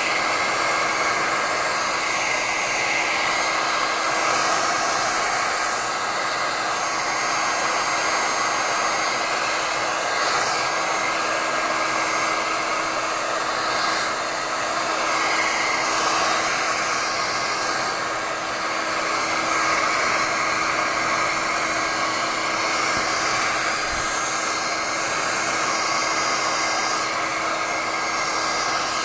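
Hand-held hair dryer blowing steadily, drying a freshly washed furnace filter: a constant rushing air noise with a steady low hum under it.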